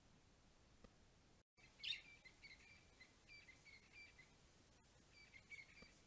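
Faint bird song: short phrases of a few clear notes, repeated over and over, starting about two seconds in and returning near the end, over a soft hiss.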